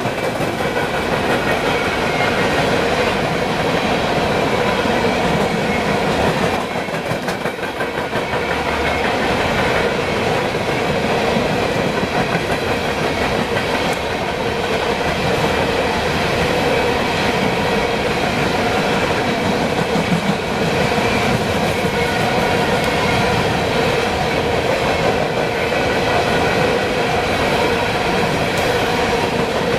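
Train cars rolling past close by: steady wheel-and-rail noise with clickety-clack, dipping briefly about seven seconds in.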